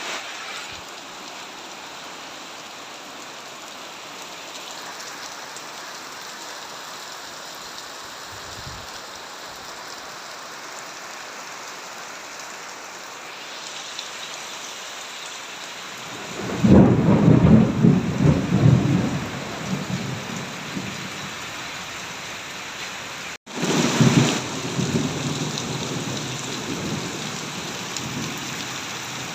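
Steady rain falling, with a loud rumble of thunder a little past halfway and a second, shorter rumble near the end.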